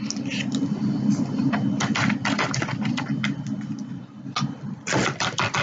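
Plastic utensil clicking and scraping against a sour cream tub as sour cream is spooned out. There are many short clicks, with a quick run of taps near the end, over a steady low hum that fades about four seconds in.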